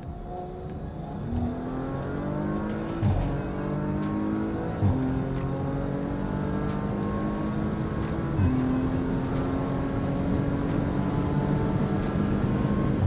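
Audi RS5's twin-turbo V6 at full throttle in a street race, its pitch climbing through each gear. It drops sharply with upshifts about three, five and eight and a half seconds in, then climbs slowly in the last gear.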